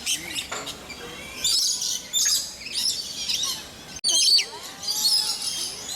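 Many birds chirping and twittering at once in a dense chorus of high, overlapping calls, which cuts out abruptly for an instant about four seconds in.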